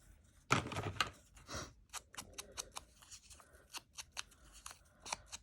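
Paper being handled and cut with scissors: a louder rustle of paper about half a second in, then a run of short, quick scissor snips.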